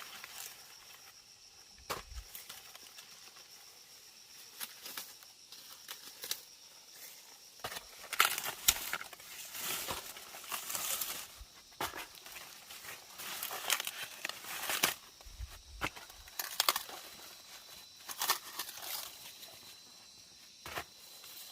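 Dry corn leaves and husks rustling, crackling and tearing as they are handled, in irregular spells with a few sharp snaps. A thin steady high insect buzz sounds at the start and again near the end.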